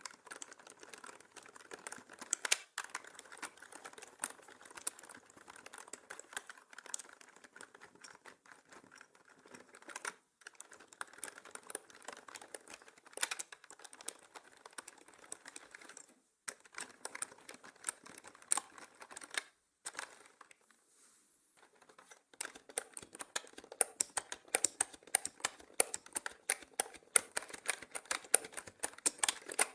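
Typing on a mechanical keyboard: fast, uneven runs of sharp key clicks with short pauses, a longer break about two-thirds of the way through, then denser, louder typing toward the end. The audio is mixed as 8D sound, moving around the listener's head.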